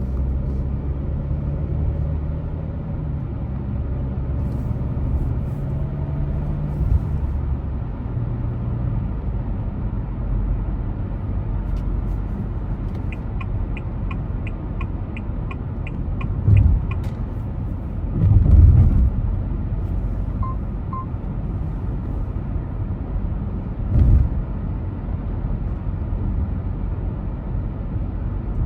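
Car driving along a road: a steady low road and engine rumble, the engine's hum easing off after about eight seconds. Midway comes a run of even ticks, about three a second for a few seconds, and a few dull thumps follow, the loudest about two-thirds through.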